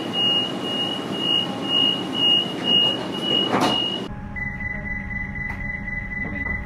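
Suburban train door-closing warning: a high beep repeating about twice a second. It is followed after a cut by another train's steady high warning tone lasting about three seconds.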